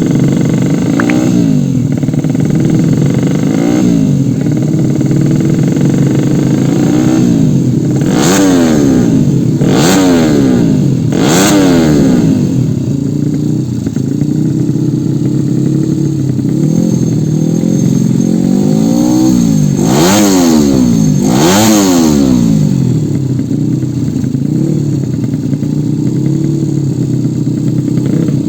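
Yamaha Jupiter underbone motorcycles revving hard again and again, the throttle blipped so the engine note climbs and falls every second or two, with the sharpest revs about a third of the way in and again past the middle.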